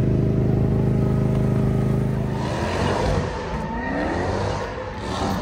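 Car engine running with a deep, steady idle, which about halfway through gives way to quieter revving that rises and falls in pitch.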